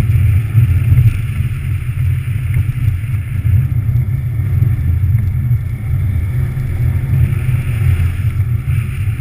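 Subaru WRX STI's turbocharged flat-four engine running steadily under load, a loud, rough low rumble, with a hiss from studded tyres on ice.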